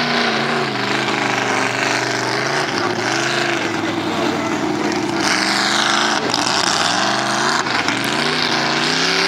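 Off-road truck engine revving hard under load, its pitch dropping and climbing again several times.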